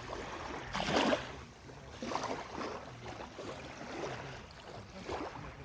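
Small lake waves lapping and splashing at the shore in irregular wash sounds, the loudest splash about a second in.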